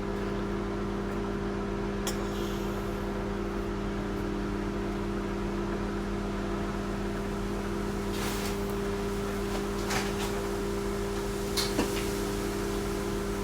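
Microwave oven running with a steady hum while cooking, with a few light clicks and knocks now and then.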